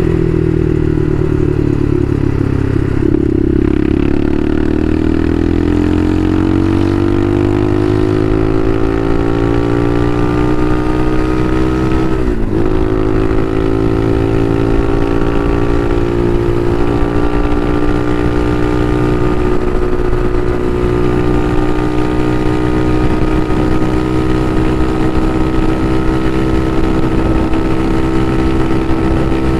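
Bashan Motomax 250 supermoto engine under way, heard from on the bike. Its note climbs steadily as the bike pulls through the revs, dips sharply for a moment about twelve seconds in, then holds a steady high cruise that creeps slowly higher.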